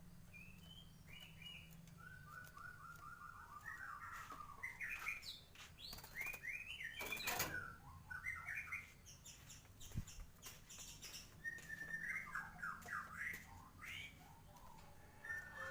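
White-rumped shama singing a rapid, varied song of sweeping whistled notes in several phrases with short pauses, plus a few sharp clicks.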